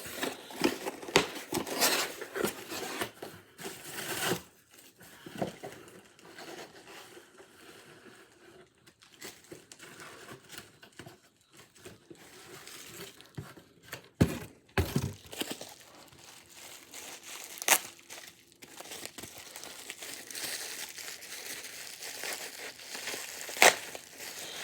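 A cardboard box being cut open with scissors, and the packaging inside being pulled about and crinkled. The rustling is busiest in the first few seconds and quieter afterwards, with a few sharp knocks of the box being handled.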